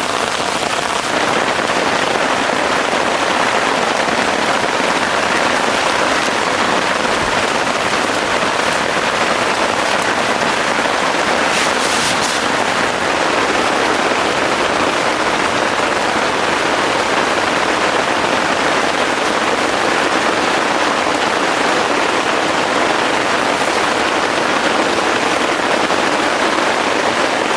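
Heavy rain falling steadily, an even hiss. A short high crackle about halfway through.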